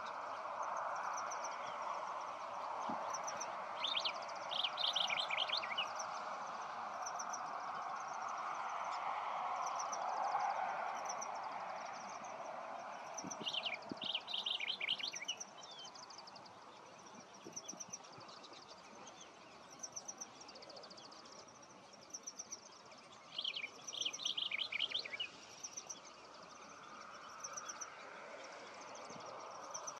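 Wild birds calling: three bursts of rapid chattering notes, about ten seconds apart, over a steady series of short high peeps repeated about once a second. A steady hiss underneath fades out about halfway through.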